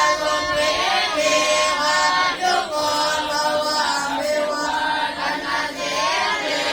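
A group of voices chanting Pali Buddhist verses in unison, with drawn-out held tones that glide between pitches.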